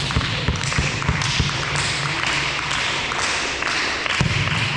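Thuds and taps of a volleyball game in a sports hall, with a volleyball bouncing and being struck, over a steady hiss of hall noise.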